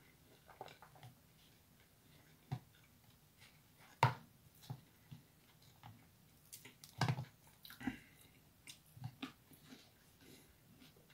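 A person chewing noodles close to the microphone, with scattered short clicks and smacks. The loudest come about four and seven seconds in.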